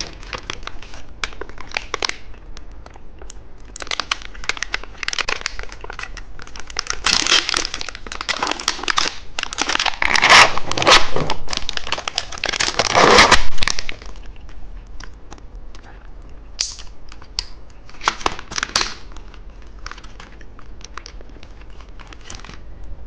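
Plastic snack wrapper being handled and opened, crinkling in dense crackly bursts that are loudest for several seconds in the middle.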